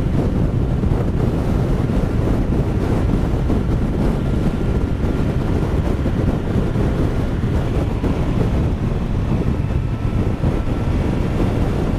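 Steady wind rush and buffeting on a helmet-mounted microphone from a sportbike riding at about 50 mph in strong gusty wind, with the bike's running under it.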